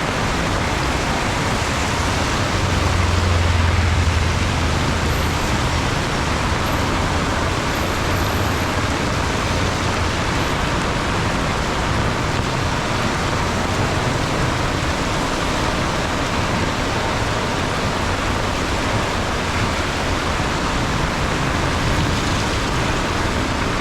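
Heavy rain pouring steadily, a dense even hiss, with the low rumble of a passing vehicle swelling about three to four seconds in.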